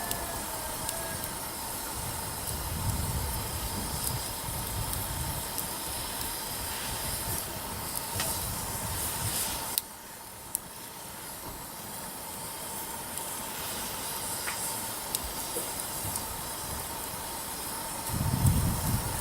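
Wood campfire burning: a steady hiss of flames with scattered sharp pops and crackles from the burning firewood. The overall level drops suddenly about ten seconds in.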